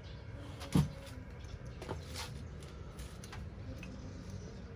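A single dull knock about a second in, followed by a few faint light clicks over a low steady background.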